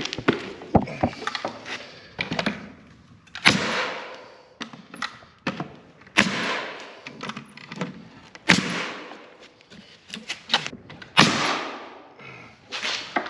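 Sheet metal being knocked into place on a wooden frame. Loud strikes about every two and a half seconds, each followed by a short rattling ring, with lighter knocks in between.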